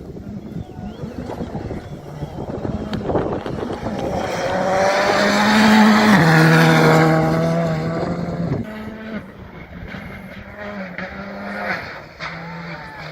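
Rally car at speed approaching, passing close about six seconds in, where its engine note steps down sharply in pitch, then fading away.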